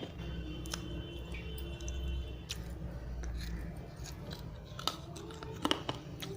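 Someone chewing pieces of dry fired red-clay diya close to the microphone, with irregular crunches and a few sharper crunches near the end.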